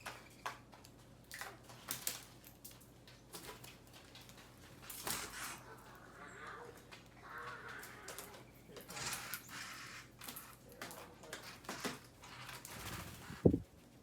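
Birds feeding: scattered light taps and clicks of beaks pecking at seed, with one loud thump near the end.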